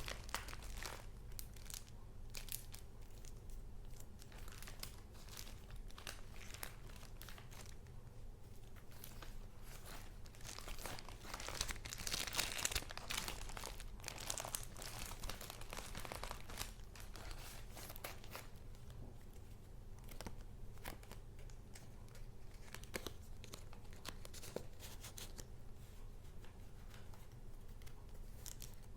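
Paper being handled: irregular rustling and crinkling of sheets and paper pieces, busiest and loudest about twelve seconds in.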